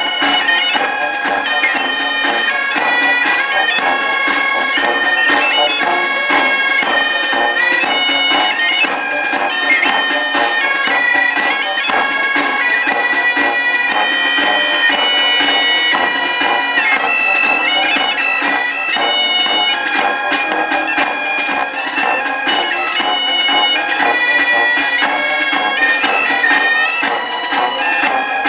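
Live instrumental music: a wind-instrument melody of held notes stepping in pitch over a steady drone, with no singing.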